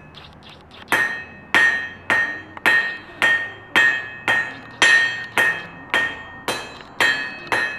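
A blacksmith's hammer striking metal on an anvil, starting about a second in and going on as a steady run of about two blows a second. Each blow leaves a short bright ring.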